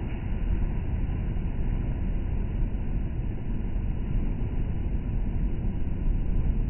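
Storm waves on the sea breaking against the shore, heard as a steady, deep rumbling wash with nothing above the low-mid range, typical of surf audio slowed down along with slow-motion footage.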